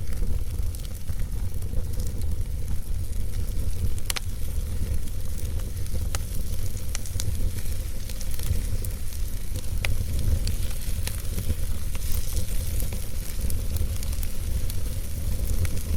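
Logs burning in a fireplace: a steady low rumble of the fire with occasional sharp crackles and pops every second or two.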